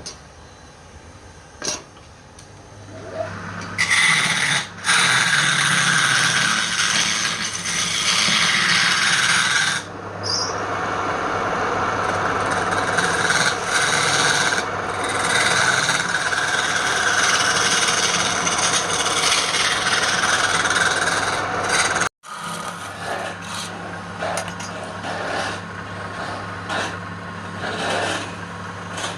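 Wood lathe motor humming steadily while a tool is held against the spinning wood. The tool scrapes loudly from about four seconds in, then gives lighter, choppier contact after a brief break around two-thirds of the way through.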